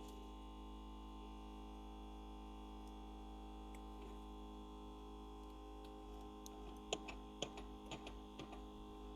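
Faint steady electrical hum from the LCD screen separator machine, with a few light clicks in the last few seconds.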